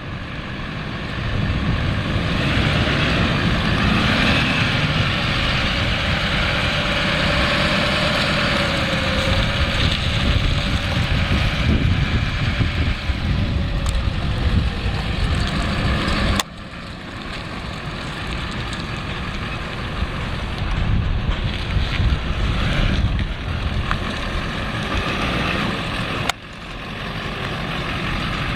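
GMC Sierra 2500 HD's 6.6-litre Duramax V8 turbo-diesel running, with wind buffeting the microphone. The sound drops suddenly twice, past the middle and near the end.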